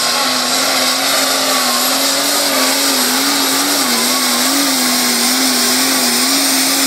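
Tractor-pulling tractor's engine running flat out at a steady high pitch that wavers slightly.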